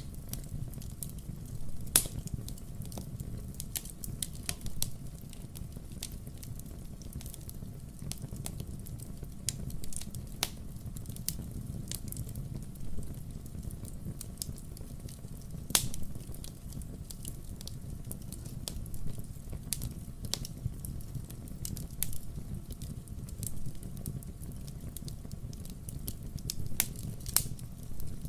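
Wood fire crackling: irregular sharp pops and snaps over a low, steady background of the burning logs, with a louder pop about two seconds in and another about halfway through.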